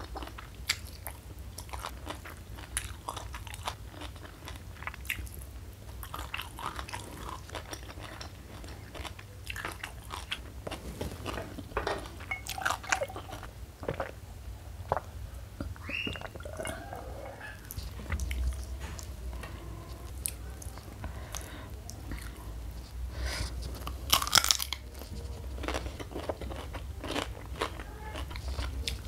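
Close-miked mouth sounds of eating: crunching and chewing crispy fried mushroom and raw cucumber, with the loudest crunching bites near the end. About halfway there are gulps of a drink being swallowed.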